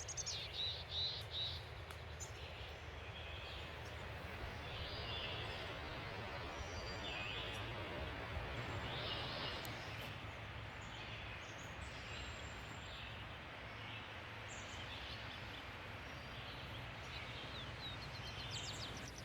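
Small birds chirping and calling in short high notes, several in quick succession in the first couple of seconds and more scattered later, over a steady rushing background noise.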